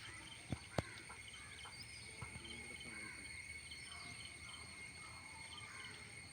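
Insects chirring steadily in a continuous high drone, with small repeated chirps over it. Two sharp clicks sound just under a second in.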